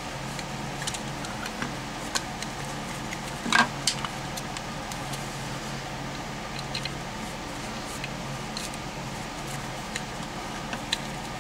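A screwdriver backing out a long screw: scattered small clicks and light scrapes of metal, with a louder short scrape about three and a half seconds in, over a steady low hum.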